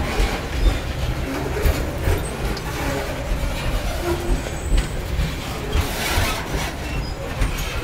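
Freight train of covered hopper cars rolling past close by at speed: a steady low rumble from the wheels and cars, with frequent irregular clacks and rattles.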